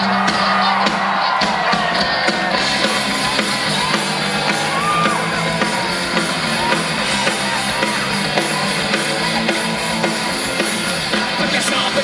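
A live rock band playing loud, fast music, with voices yelling and whooping over it.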